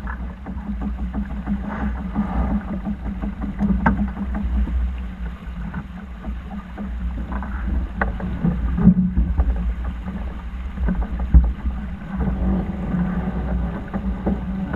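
Steady low rumble of a sailing yacht under way, with occasional sharp knocks scattered through it.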